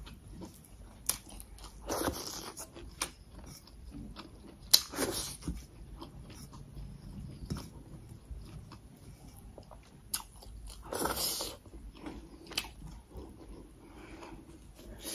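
Close-miked chewing and eating sounds: small clicks and wet mouth sounds, with a few louder crunches about two, five and eleven seconds in.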